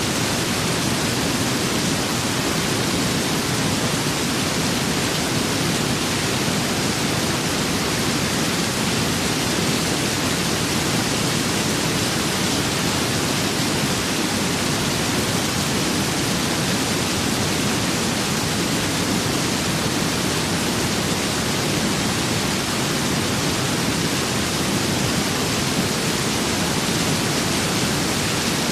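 Steady rain with wind: an unbroken, even hiss whose level does not change.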